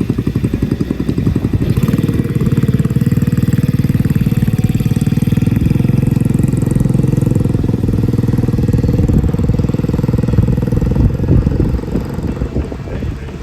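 Small mini-bike engine running steadily with a fast, even pulse. It grows louder about two seconds in and drops off near the end.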